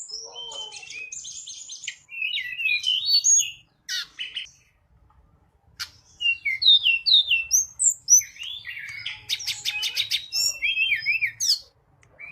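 Tledekan gunung (Sunda robin) singing: phrases of quick, varied chirps and whistled notes broken by short pauses, with a fast rattling trill about two-thirds of the way through. It is a lure song meant to call in wild birds of the same kind.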